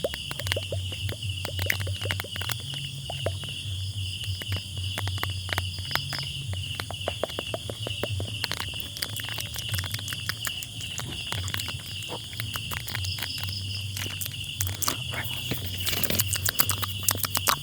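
Crickets chirping in a steady, continuous trill, with a low hum beneath and many small clicks and taps scattered throughout, busier near the end.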